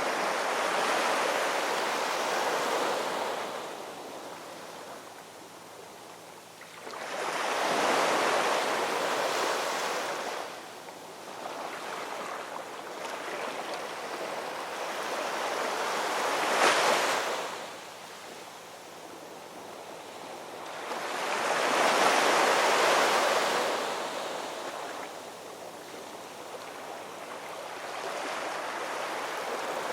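Ocean waves breaking and washing in, rising and falling about every five to seven seconds, with one sharper crash a little past halfway.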